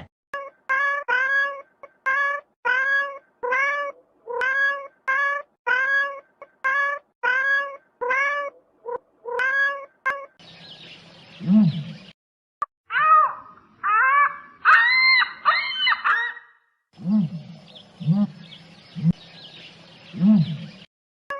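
Cats meowing. A fast run of short, rising meows comes about twice a second, then a few lower calls over background hiss, another burst of meows, and more low calls near the end.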